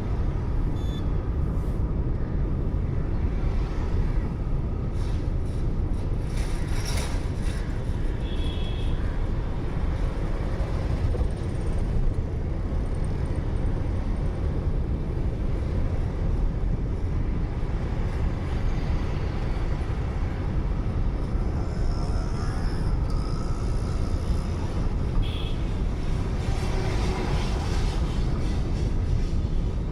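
Steady road noise of a moving car, a low rumble of tyres and engine as heard from the dashcam inside the cabin, with a few brief high-pitched sounds.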